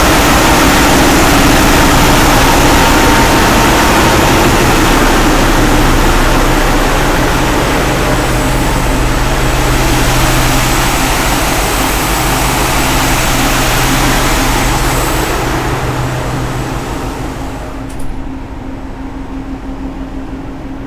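Machinery in a ship's engine room running loud and steady, a dense hiss over a deep hum with several steady tones. Over the last few seconds the hiss falls away, a sharp click comes near the end, and a quieter steady hum remains.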